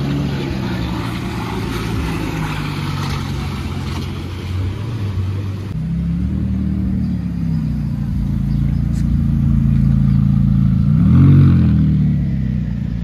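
A car engine running and revving, its pitch rising and falling several times, with the loudest short rev about eleven seconds in.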